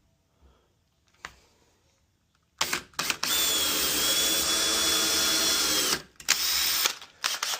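Power drill starting with a couple of short bursts, then running steadily at one even pitch for about three seconds, then a few brief blips of the trigger near the end.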